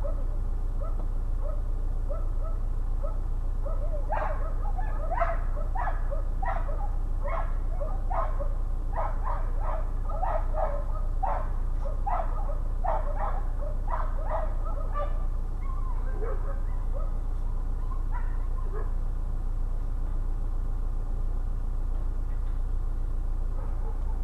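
A dog giving a run of short, high barks, about one or two a second, starting about four seconds in and lasting some ten seconds, with a few weaker calls after, over a steady low hum.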